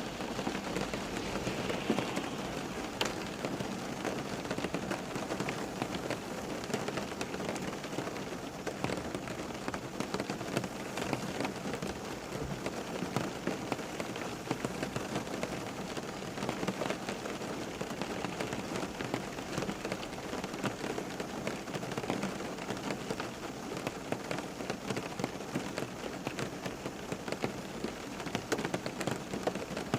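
Steady rain falling and pattering on a surface, an even hiss of many small drops with no lulls.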